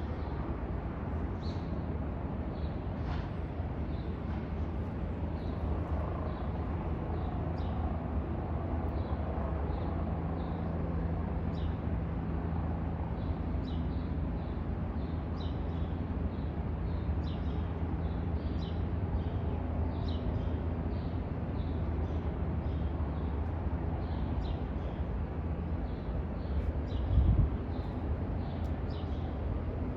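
A bird chirping in short, high notes again and again over a steady low hum. A brief louder low rumble comes near the end.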